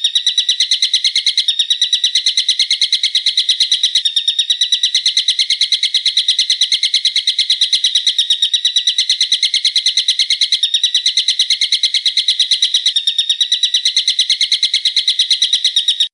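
A songbird's sharp, rapid trill of quickly repeated high notes, running unbroken and cutting off suddenly at the end. A small jump every few seconds marks the joins of a looped recording.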